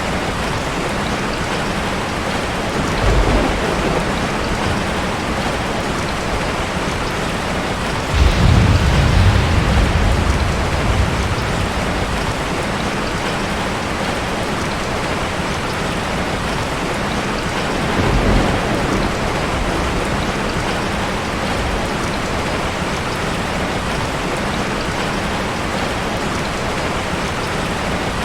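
Heavy rain falling steadily. Thunder rumbles three times: briefly a few seconds in, longer and louder about a third of the way through, and briefly again just past the middle.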